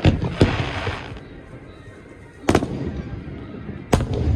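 Aerial fireworks shells bursting: two sharp bangs at the start with a crackling hiss after them, then single bangs about halfway through and near the end, each trailing off in a low rumble.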